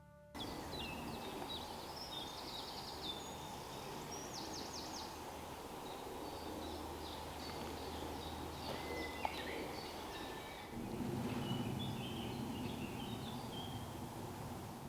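Woodland ambience: several small birds chirping and trilling over a steady background hiss. About two-thirds of the way through, a louder stretch of low noise joins in.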